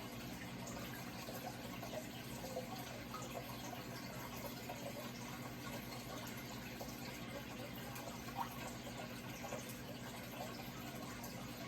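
Running water trickling and splashing steadily, with a steady low hum underneath and a single slightly louder drip or splash about eight seconds in.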